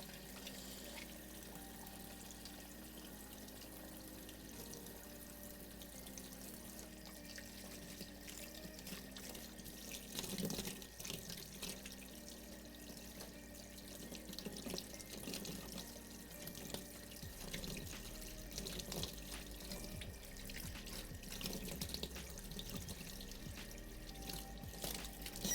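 Kitchen tap running into a sink while dishes are washed, with scattered light clatters.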